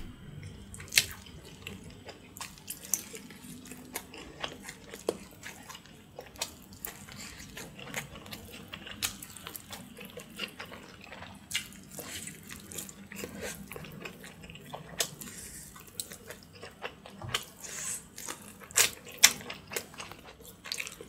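Close-miked wet eating sounds: chewing and sucking meat off boiled pork spine bones, a run of sharp wet clicks and smacks, with a few louder smacks about a second in and near the end.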